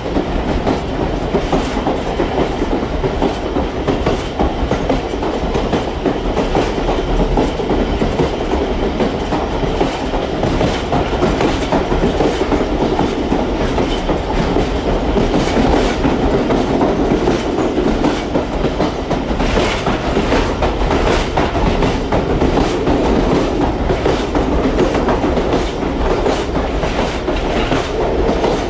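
Pakistan Railways express train running along the track: a steady rumble of wheels on rails with many sharp, irregular clicks.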